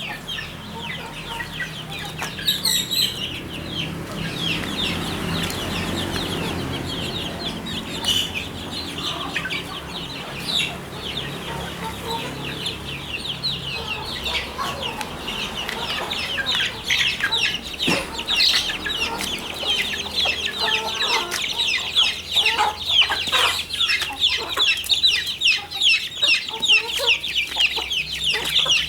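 A flock of ayam kampung (Indonesian village chickens) clucking, with many short high calls overlapping throughout, growing denser in the second half.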